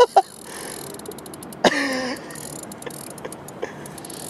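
A fishing reel clicking in quick runs as a hooked pike takes line, with a short voiced exclamation about a second and a half in.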